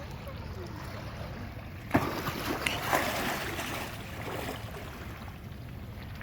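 A boat's steady low rumble on the water, with a sudden loud rush of water noise about two seconds in that fades over a couple of seconds.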